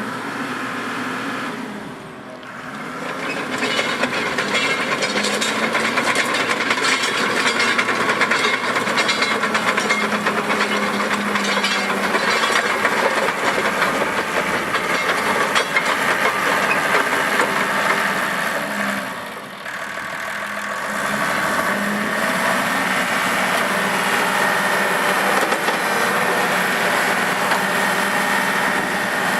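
Cat D4G LGP track-type tractor running, a diesel engine note under a steady mechanical clatter. The sound drops briefly twice, about two seconds in and again about two-thirds of the way through.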